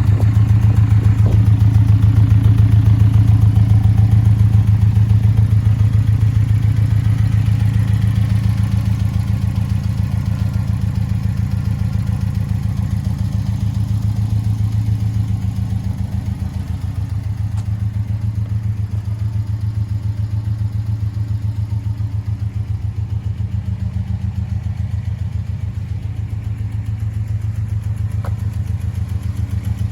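2017 Porsche 718 Cayman S's turbocharged 2.5-litre flat-four idling steadily with a low, even pulse, a little quieter from about halfway through.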